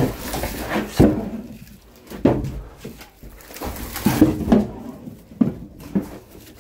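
Several sharp knocks and clunks at irregular intervals, about six in all, with quieter rustling and handling between them.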